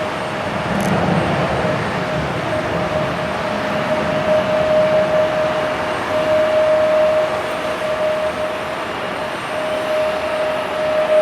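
Jet airliner engines running steadily: a constant rushing noise with a steady whine on top.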